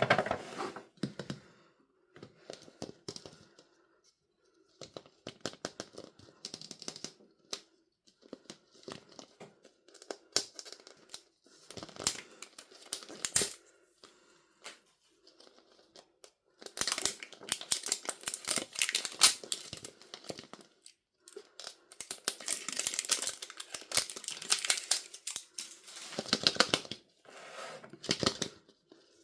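Packaging being opened by hand in bursts: crinkling and tearing with dense crackles and small clicks. The longest, loudest stretches come about two-thirds of the way through.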